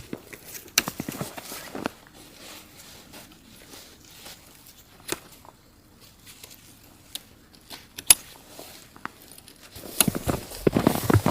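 Scattered light clicks and knocks, like things being handled, with one sharper click about eight seconds in and denser rustling and knocking starting near the end.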